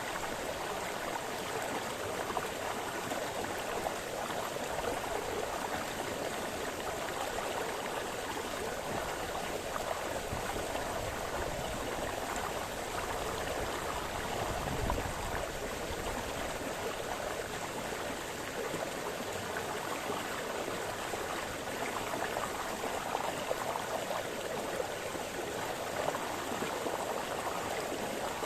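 Small forest brook splashing and burbling over stones, a steady, continuous rush of water.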